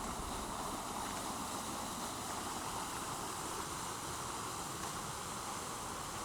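Steady rushing of distant flowing water, an even noise with no distinct events.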